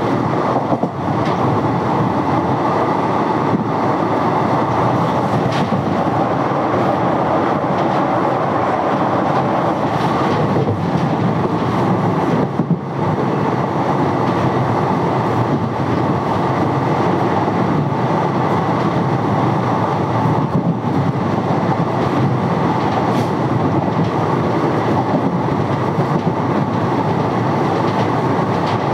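Indian Railways express passenger coach running at speed: a loud, steady rumble of wheels on the track, with a few sharp clicks.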